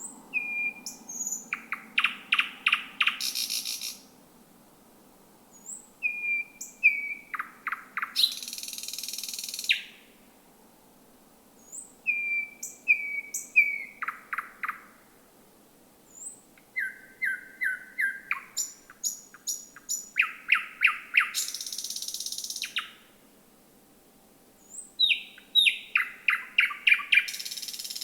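Thrush nightingale singing: about five song phrases a couple of seconds apart, each opening with short whistled notes, then a fast run of loud clicking notes, most ending in a harsh rasping rattle.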